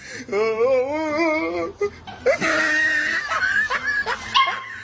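A dog howling: one long wavering call, then shorter broken calls.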